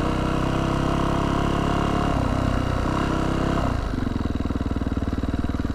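Yamaha YZ450F dirt bike's single-cylinder four-stroke engine running steadily at low speed, then dropping to an even, pulsing idle about four seconds in.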